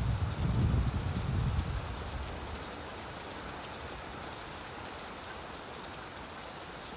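Steady rainfall hissing, with a low rumble of distant thunder dying away in the first two seconds.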